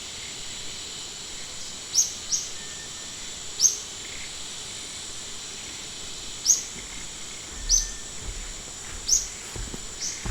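Forest ambience: a bird gives about six short, high chirps at irregular intervals over the steady high drone of insects and an even background hiss. A few faint low rumbles come near the end.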